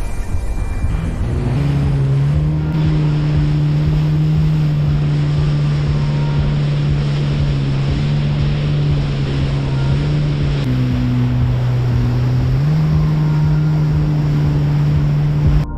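Jet ski engine running under way over a rush of water and wind. The engine note settles in over the first couple of seconds, dips about eleven seconds in and climbs back about two seconds later.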